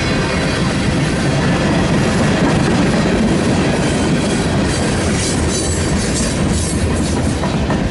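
A train rolling past close by, its steel wheels clattering on the rails in a loud, steady rumble, with sharper high-pitched clatter from the wheels a little past halfway.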